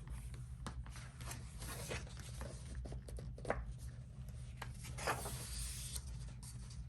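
Paper pages of a coloring book being handled and turned: soft rustling and rubbing with scattered light clicks, over a low steady hum.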